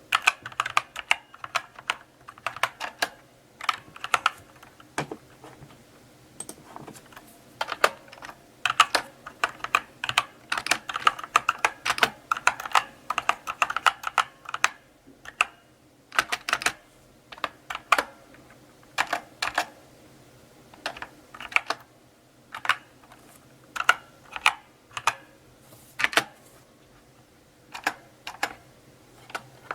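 Slow typing on a mechanical keyboard: irregular key clicks in short flurries, with brief pauses between them.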